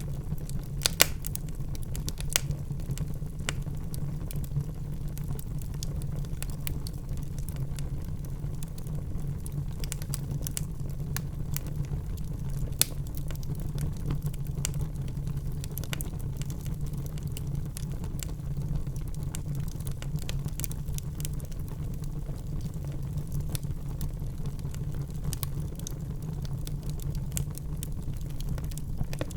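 Wood fire in a fireplace burning with a steady low rumble and frequent crackles and pops, a few sharper pops about a second in and around thirteen seconds in.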